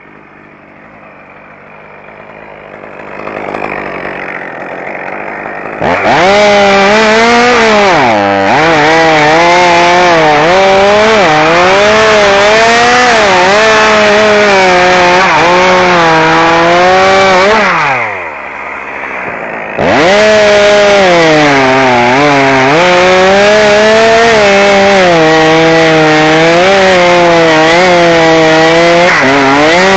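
Chainsaw running at low revs, then opened up to full throttle a few seconds in and cutting wood, its pitch sagging and recovering under load. About two-thirds of the way through it drops briefly to low revs, then opens up and cuts again.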